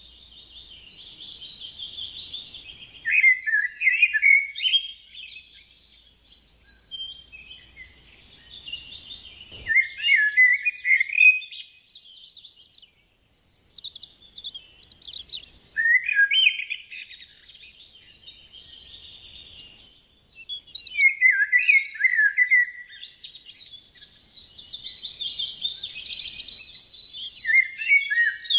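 A bird singing in repeated phrases, roughly every six seconds: each phrase is a fast chattering trill that drops into a few louder, lower notes.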